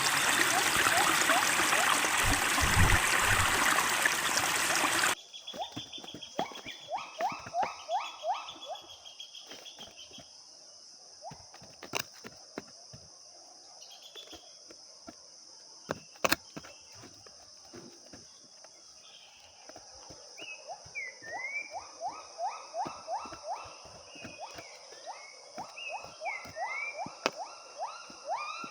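Rushing stream water for about five seconds, then a sudden cut to a quieter forest: a steady high insect drone, and a bird calling in fast runs of rising notes, about four or five a second, with a couple of sharp clicks.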